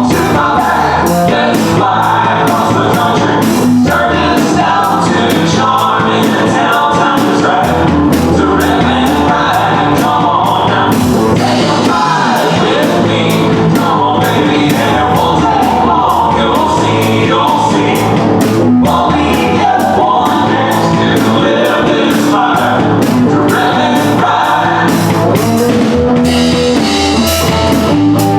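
Live country band playing a song: lead vocal over drum kit, guitars and bass with a steady beat.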